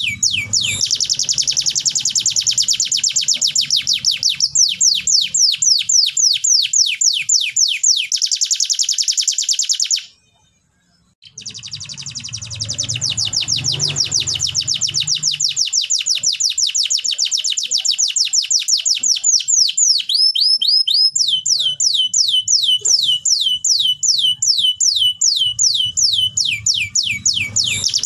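Domestic canary singing a continuous song of fast trills made of repeated down-sweeping notes, several a second. The song breaks off for about a second near the middle, then resumes.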